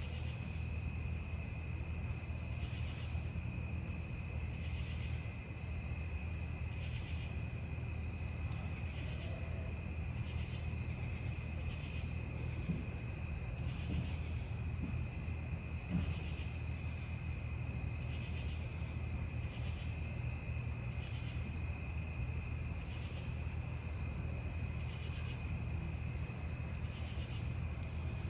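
Crickets trilling steadily and without a break over a wood campfire, with a couple of sharp pops from the burning wood about halfway through.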